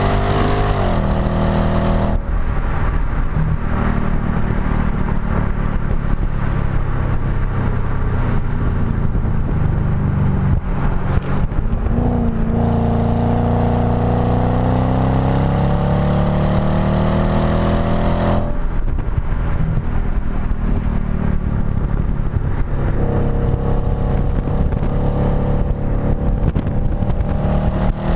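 Audi B7 S4's 4.2-litre V8 heard at the tailpipe through a STaSIS aftermarket exhaust on track. Revs climb under throttle, drop briefly at a gear change about twelve seconds in and climb again, while about two seconds in and again about eighteen seconds in the note turns ragged off throttle before pulling once more near the end.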